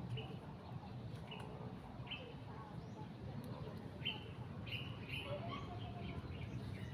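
Birds chirping: short, high calls every second or so, over a low steady rumble.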